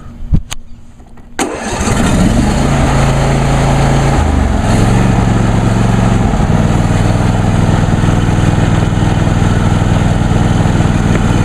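John Deere D130 lawn tractor engine, started on choke, catching about a second and a half in after a sharp click or two, then running steadily. Its speed shifts a few times in the first several seconds before settling to an even run.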